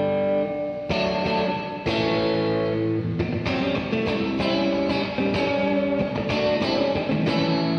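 Electric guitar chords played through a Donner Verb Square reverb pedal on its plate setting. A new chord comes about once a second, each ringing on into a reverb tail.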